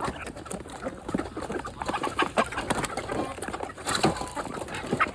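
Chickens clucking softly among many quick, irregular taps of beaks pecking at food.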